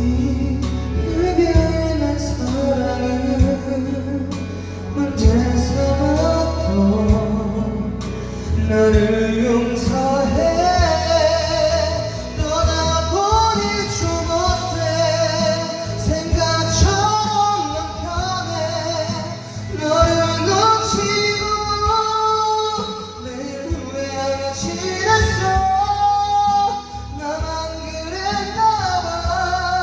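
A man singing a slow Korean ballad along to a karaoke backing track, his voice gliding and holding long notes over the accompaniment.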